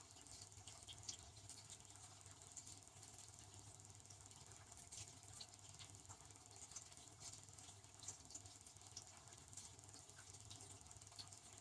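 Devanti benchtop dishwasher running, heard faintly: a steady low hum with light, irregular patter and small ticks throughout.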